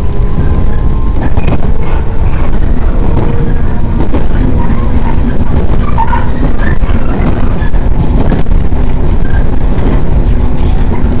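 Running noise inside a JR 115 series electric train's passenger car: a loud, steady rumble of wheels on the rails with a faint motor hum and a few short knocks.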